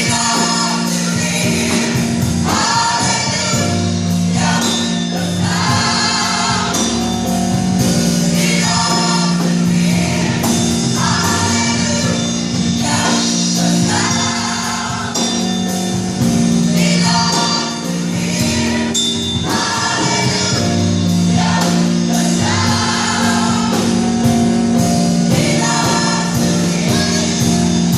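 Gospel choir singing a praise song with full instrumental accompaniment, in repeated phrases over a steady beat.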